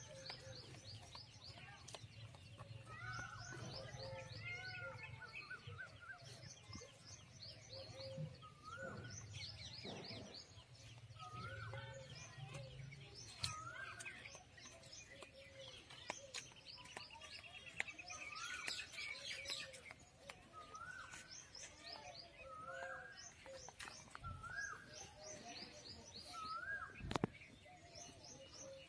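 Birds chirping: a string of short rising calls repeated every second or two, with quicker, higher twittering above them. A single sharp knock sounds near the end.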